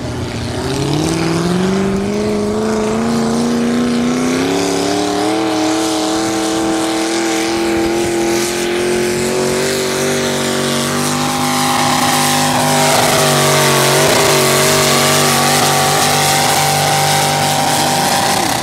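Tractor-pull engine running at full throttle under the load of a pull. Its pitch dips just after the start, then climbs steadily for about ten seconds and holds high, and it drops away sharply at the very end as the throttle comes off.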